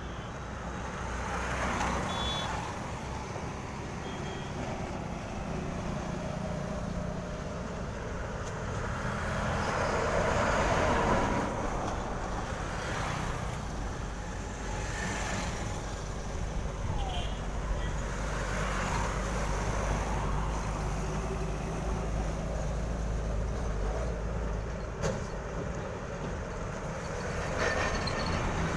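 Heavy goods trucks passing one after another. The engines rumble steadily, and the road noise swells and fades as each truck goes by. A few short high beeps sound twice.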